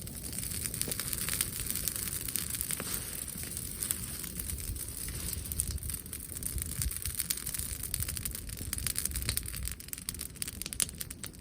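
Brushwood bonfire crackling, with a dense run of irregular snaps and pops.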